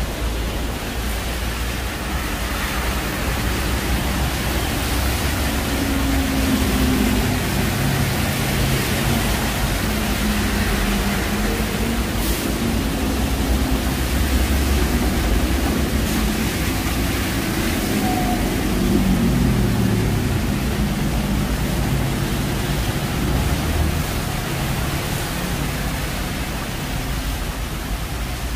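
Steady hiss of heavy rain on wet city streets, with the engine hum of passing traffic underneath; one vehicle's note falls as it goes by about two-thirds of the way through.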